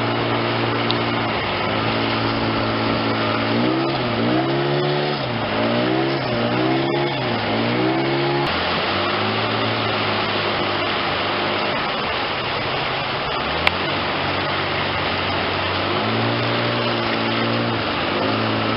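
An engine running steadily, its pitch swinging up and down several times a few seconds in before settling again.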